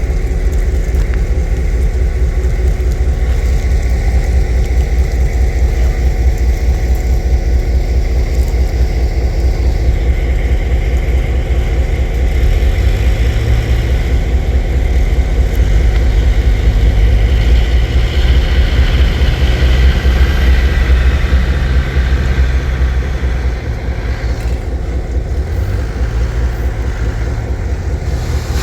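A large engine running steadily close by, a fast low pulsing rumble that eases off a little near the end.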